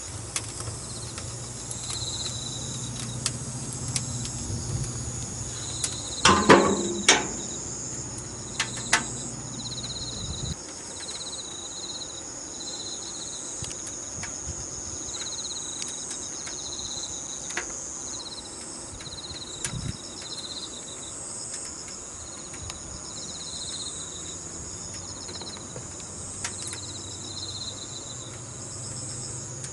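Insects chirping steadily: a continuous high trill together with short chirps repeated about once a second. A clatter of knocks comes about six to seven seconds in, with a few sharp clicks later, and a low hum stops about ten seconds in.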